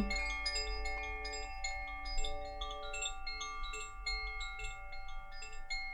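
Soft background music of ringing chimes: many struck notes at different pitches overlapping and sustaining.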